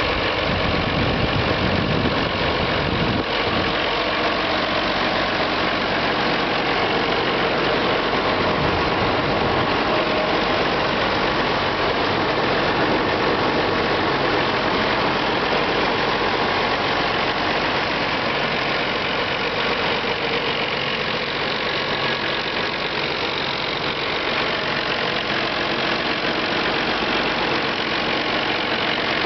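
Allis-Chalmers D19's turbocharged six-cylinder diesel engine running at a steady speed.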